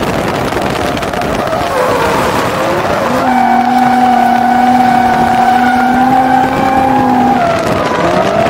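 Nissan 350Z's 3.5-litre V6 engine revving hard through a drift, with tyres sliding. Its pitch wavers and dips at first, is held steady at high revs for about four seconds from about three seconds in, then falls and climbs again near the end.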